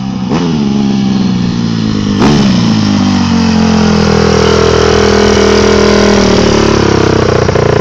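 Dirt bike engine running close by, blipped up sharply twice in the first couple of seconds, then held at a steady, slightly wavering pitch as the rider climbs.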